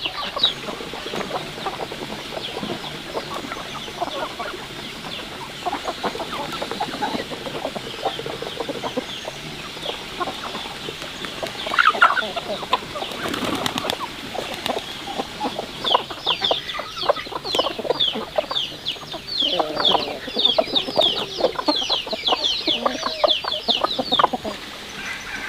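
Chickens clucking, with quick runs of high, short chirps that grow busier in the second half, and scattered wing flaps and scratching.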